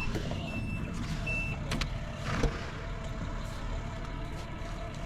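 Vehicle engine idling with a steady low rumble. A high electronic beeping repeats in short even pulses and stops about a second and a half in, and a few sharp knocks follow, the loudest about two and a half seconds in.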